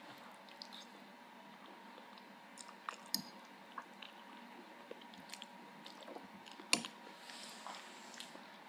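Someone eating ramen noodles, chewing softly with scattered wet mouth clicks. Two sharper clicks stand out, one about three seconds in and a louder one near seven seconds.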